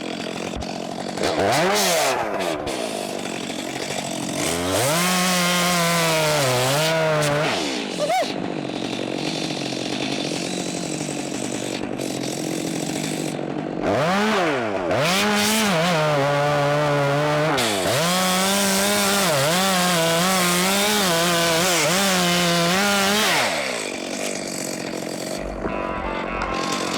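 Chainsaw running hard through wood, its engine pitch rising and sagging as it loads in the cut. It drops back to a lower idle about eight seconds in, revs up again a few seconds later and runs steadily until it drops back near the end.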